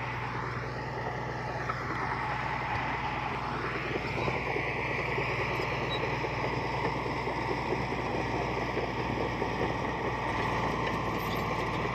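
Diesel engine of heavy earthmoving machinery running steadily under work, with a higher whine that rises about four seconds in and then holds steady.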